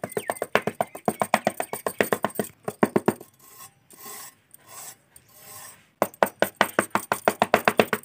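Small clear plastic scraper scraping over fine sand in quick strokes, about six a second, easing to softer scuffs in the middle before the quick strokes start again.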